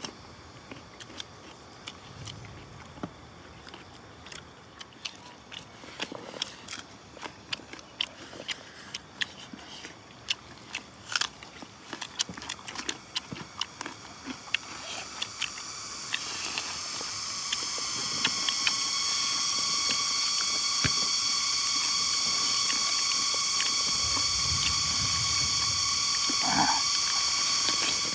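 Close-up eating by hand: chewing and lip-smacking, with many small clicks. About halfway through a steady high-pitched buzz swells in and holds as the loudest sound, then cuts off suddenly at the end.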